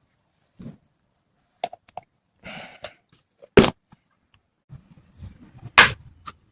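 Scattered handling noises with a few sharp knocks, the loudest about three and a half seconds in and another near six seconds, and a short rustling hiss just before the first.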